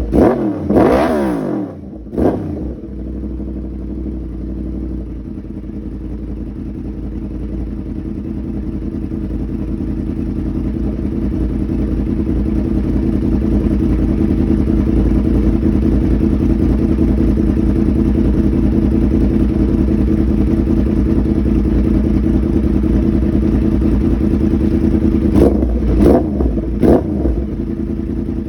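2011 Yamaha R1's crossplane inline-four running through a custom mid pipe and SC Project slip-on muffler. It revs about a second in and blips once more a second later, then settles into a steady idle. Near the end it gives about three quick throttle blips and drops back to idle.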